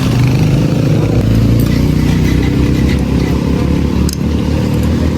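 Motorbike engine running steadily while riding, a loud continuous low rumble.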